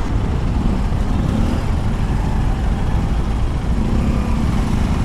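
KTM 390 Duke Gen 3's single-cylinder engine running while riding, with steady low road and wind rumble. The engine note rises faintly a couple of times.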